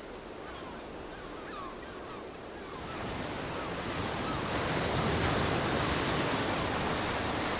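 Sea surf washing, an even rush that swells up about three seconds in and holds steady. Before it, a few faint chirping bird calls.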